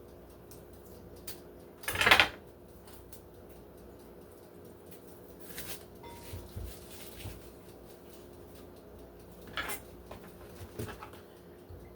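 Kitchen prep clatter: one loud clunk of utensils or a board about two seconds in, then a few quieter knocks and taps, over a steady faint hum.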